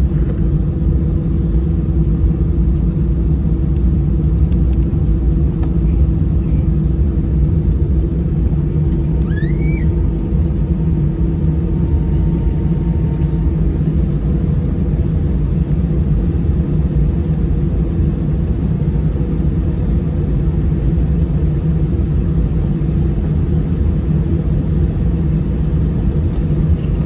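Steady low rumble and hum in the Airbus A319's cabin after arrival, with a brief rising squeak about ten seconds in.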